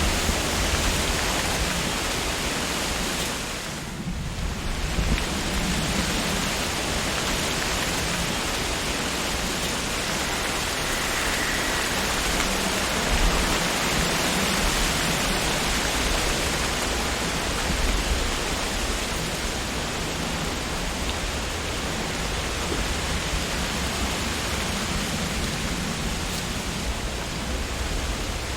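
Wind blowing through tree leaves: a steady, dense rustle that dips briefly about four seconds in, then picks up again.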